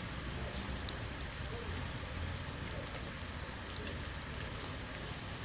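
Steady rain falling, a continuous hiss with occasional sharp ticks of individual drops.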